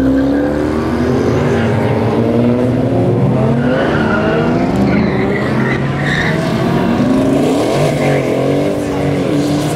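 Sports-car engines revving hard as cars accelerate away one after another, their engine notes repeatedly rising and falling and overlapping, with tires squealing at times.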